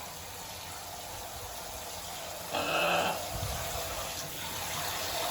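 Shower water spraying steadily while a parrot is washed under it, with one short pitched squawk from the parrot about two and a half seconds in.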